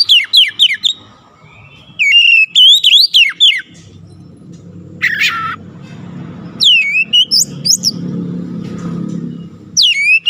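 A goce songbird singing in bursts of sharp, quick down-slurred whistles, with pauses between the phrases. A low steady rumble runs under the second half.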